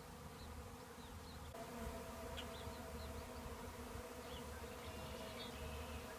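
A massive honeybee swarm buzzing steadily as the bees fly around and settle onto a pine tree, a dense, continuous hum of thousands of wings, slightly louder from about a second and a half in.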